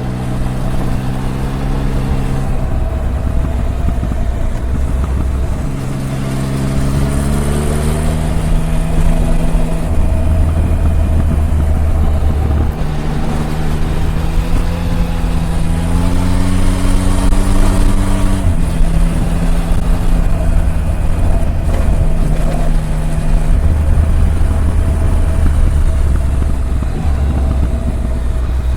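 Triumph Tiger 1050's inline three-cylinder engine under way, its pitch rising as it accelerates and dropping at gear changes, then holding steady at cruising speed in the last part.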